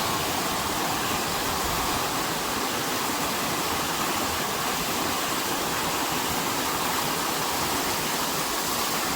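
Heavy rain falling: a steady, even rushing hiss that does not change.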